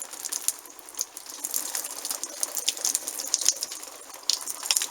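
Water poured from a watering can splashing onto fabric hats, a continuous dense splatter of drops like rain, as a waterproofing test.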